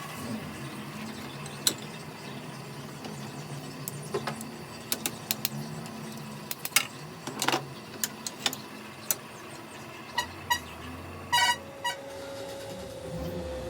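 Scattered metal clinks and taps of tools and steel parts being handled, a few ringing briefly with a clear pitch, over a steady workshop hum.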